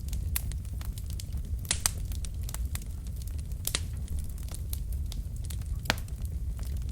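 Wood fire burning in a fireplace: a steady low rumble of the flames with irregular sharp crackles and pops from the burning logs, the loudest pops a little under 2 s in, near 4 s and near 6 s.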